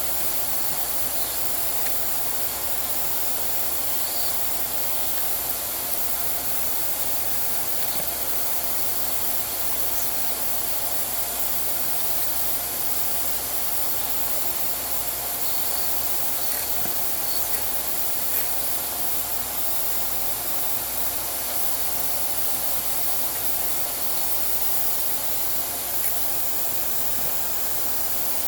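Vacuum cleaner running steadily with an even hiss, cleaning dust out of a sewing machine.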